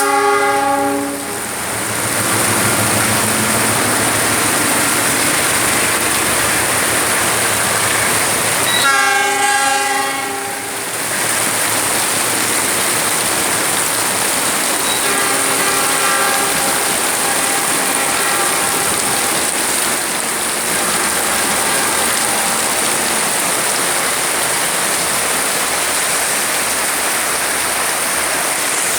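CC206 diesel-electric locomotive sounding its multi-tone horn twice: a short blast at the start and a longer one about nine seconds in. A steady running noise from the passing train goes on throughout.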